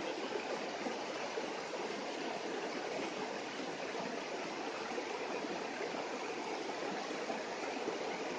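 Steady, even rushing noise with no distinct events, of the kind made by running water.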